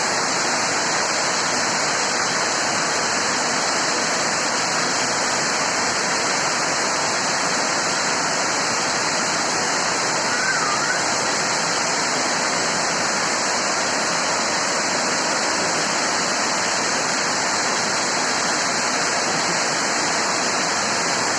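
Heavy rain pouring down steadily in a dense, unbroken rush of water.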